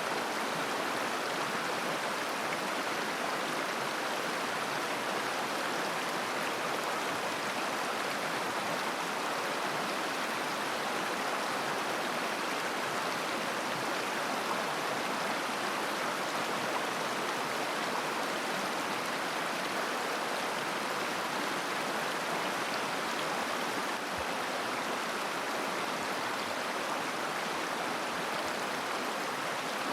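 River water flowing and babbling over stones, a steady rushing murmur.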